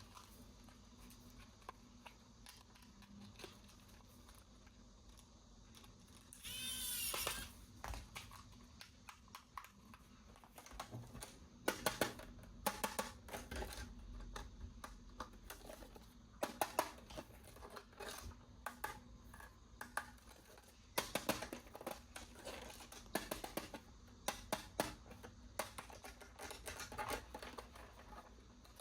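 Toy packaging being handled during an unboxing. A brief loud rasping noise comes about seven seconds in, then irregular sharp clicks and taps of plastic and cardboard for the rest of the stretch.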